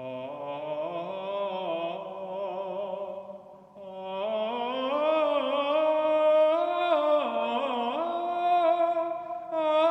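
Slow, sustained singing, held notes with a wavering pitch. A brief break comes a few seconds in, then a louder phrase.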